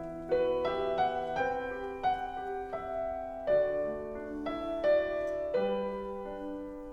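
Soft background piano music, single notes and chords struck at a gentle, unhurried pace, each left to ring and fade.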